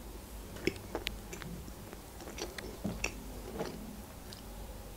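Close-miked chewing of a soft Barni sponge cake with chocolate filling, quiet, with scattered short wet mouth clicks.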